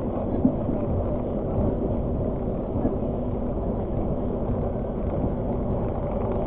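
Argo Parahyangan passenger train running along the line: a steady low rumble with a faint steady hum, and a single short knock about half a second in.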